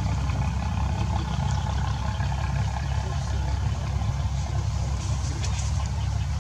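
Steady low engine hum, like a motor idling, running evenly without change, with a few faint clicks near the end.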